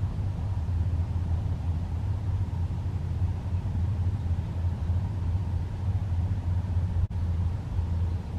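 Steady low rumble with a brief dropout about seven seconds in.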